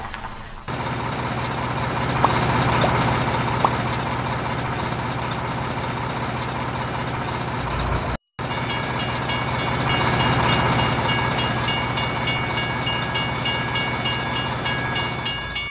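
Train running: a steady rumble with a low hum and a couple of clicks. It cuts off abruptly about halfway through, then comes back with an even clicking of about four a second and high steady tones held over it.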